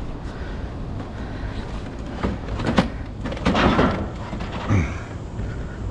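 A sharp knock, then a scraping rustle and a thud as someone clambers about inside a metal dumpster, over a steady low rumble.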